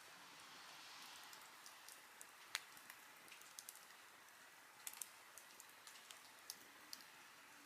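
Wood campfire crackling softly: a faint steady hiss with irregular sharp pops and snaps, the loudest about two and a half seconds in.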